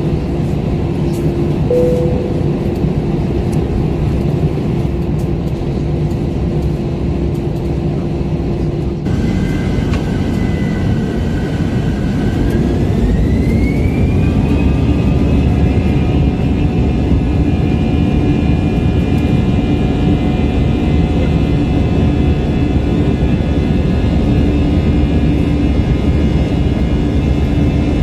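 Airbus A321 jet engines heard from inside the cabin: a steady hum, then about halfway through a whine rises in pitch and holds as the engines spool up to takeoff thrust, and the cabin grows louder.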